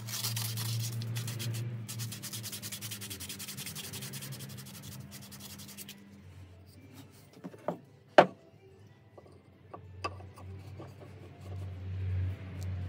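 Fast abrasive rubbing strokes on a workpiece, as in hand sanding, for about six seconds, then a few sharp knocks, the loudest about eight seconds in.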